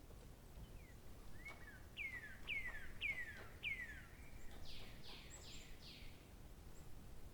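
A songbird singing one phrase: about four clear notes sweeping down in pitch, then four harsher, higher notes, over a faint steady outdoor background.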